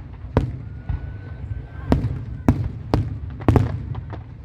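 Fireworks bursting: about six sharp bangs, most of them in the second half, over a continuous low rumble of the display. A faint thin whistle rises slightly from about a second in.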